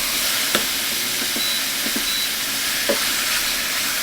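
Chicken white meat sizzling as it sautés in a hot pan, with a few light clicks from stirring.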